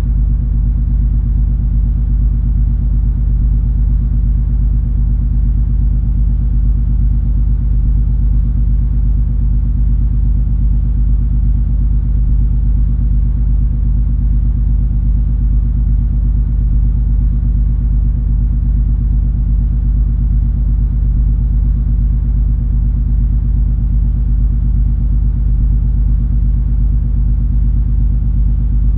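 Ship's engine drone aboard the cruise ferry MS Color Magic: a steady low rumble with a constant hum.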